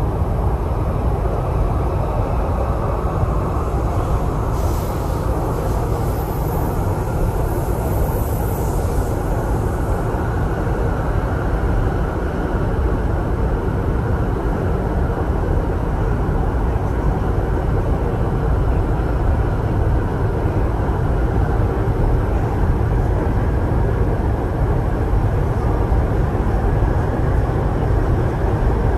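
Cabin noise inside an MTR East Rail line R-Train electric multiple unit running between stations: a steady rumble of wheels on rail and traction equipment, with a faint high hiss about five to nine seconds in.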